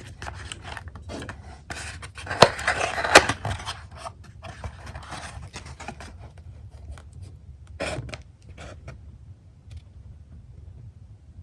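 Close-miked sounds of a pepperoni pizza being handled and eaten: crackling, scraping and clicking, loudest a couple of seconds in, with a last burst near the end and quieter handling after.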